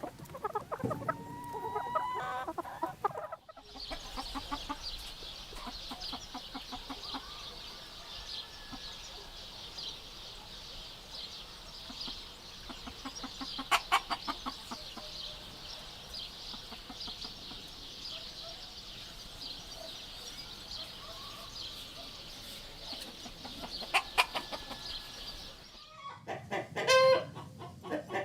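Chickens clucking, in several separate recordings. A few seconds of clucking give way to a long stretch of softer clucking over a steady high-pitched background din, with louder bursts of calls about 14 and 24 seconds in. Loud clucking comes back near the end.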